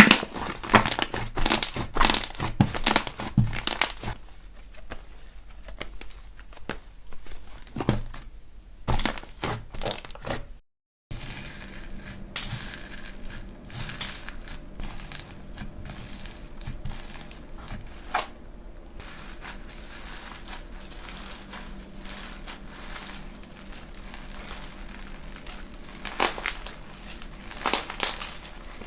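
Slime being squeezed and pressed by hand, giving dense, rapid little clicks and crackles. The sound cuts out briefly about eleven seconds in, then carries on softer over a faint steady hum.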